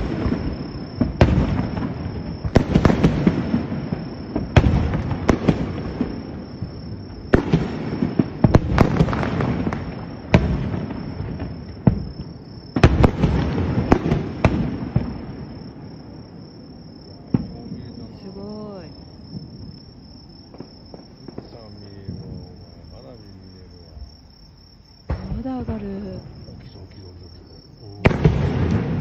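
Aerial fireworks shells bursting in quick succession, each bang trailing off in a rumbling echo. The bursts thin out about halfway through, then two more come near the end.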